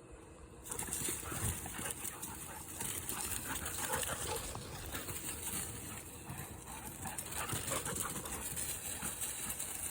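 Dogs playing close by, panting and scuffling, over a steady high hiss that comes in about a second in.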